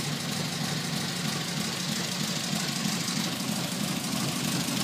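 Triumph TR4's four-cylinder engine idling steadily.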